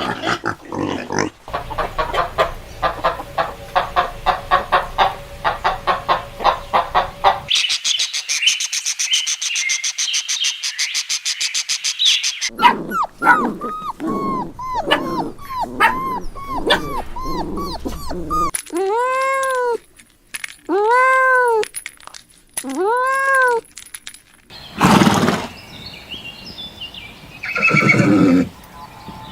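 A series of different animal calls, one after another, with a change of sound every few seconds: a fast run of short repeated calls, a high-pitched stretch, many short rising-and-falling calls, then three longer, clearly pitched rising-and-falling calls about a second apart.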